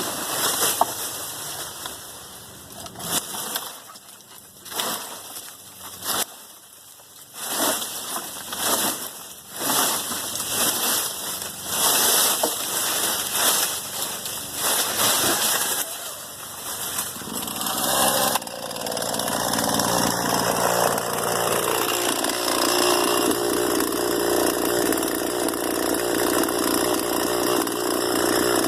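Irregular surges of noise for the first two-thirds, then a gasoline chainsaw running steadily from about two-thirds in.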